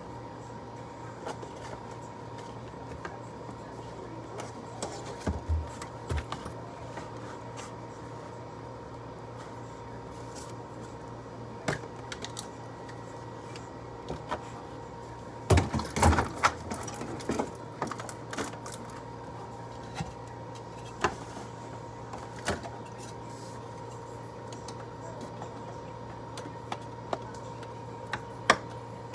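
Scattered clicks and knocks of containers and items being handled, with a burst of clattering about sixteen seconds in, over a steady hum.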